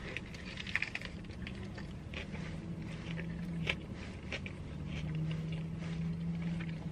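Close-up eating sounds: biting into and chewing a fried chicken sandwich, with soft crinkles of its foil-lined paper wrapper and scattered small crunches. A low steady hum comes in twice, the second time in the latter half.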